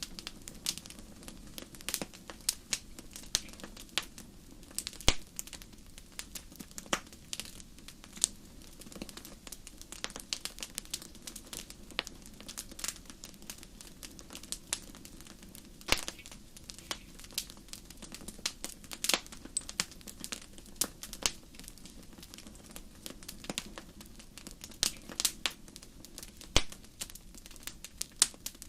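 Wood fire in a fireplace crackling, with frequent irregular sharp pops and snaps over a steady low background of burning.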